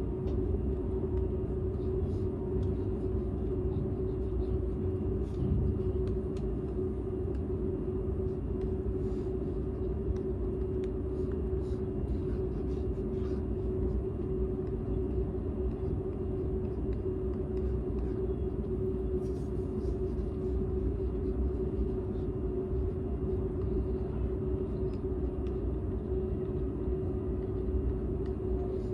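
Cabin noise inside a Seibu 001 series Laview limited express car running on the line: a steady low rumble with a constant hum, recorded in the unpowered Tc car, which the uploader calls very quiet.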